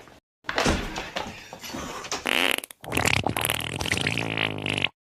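A long, rasping fart noise lasting about two seconds that stops abruptly, following a couple of seconds of noisier rustling sound.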